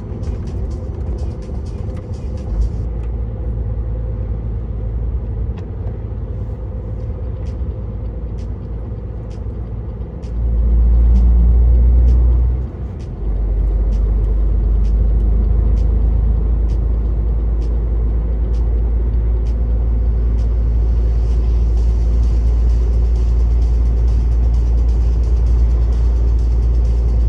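Truck's diesel engine and tyre rumble heard from inside the cab, a steady low drone with light regular ticks about every 0.7 s. About ten seconds in the engine grows louder, dips briefly a few seconds later, then carries on at the louder level.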